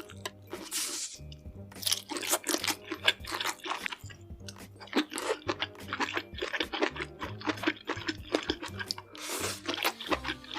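Close-miked eating: someone chewing crunchy food, many quick crunches one after another, over background music. A short hiss comes about a second in and again near the end.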